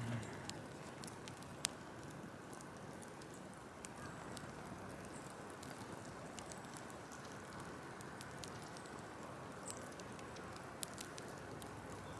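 Large open wood bonfire burning: a steady hiss with scattered sharp crackles and pops from the burning branches.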